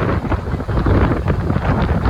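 Loud wind buffeting the microphone, a rumbling, gusty noise.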